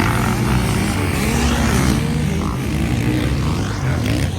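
Several MX1-class motocross bikes racing, their engines revving up and down over one another.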